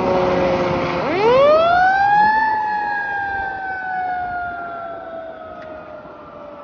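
Fire truck siren wailing. A falling tone gives way, about a second in, to a sharp rise in pitch that peaks near two and a half seconds. It then slowly slides down again and fades.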